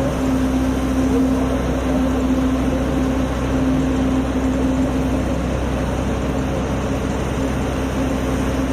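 Steady mechanical drone with a constant low hum, holding an even level throughout.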